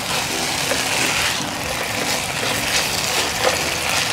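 Frog pieces sizzling in a hot nonstick pan as they are stir-fried with a spatula, a steady hissing sizzle with light scraping from the stirring.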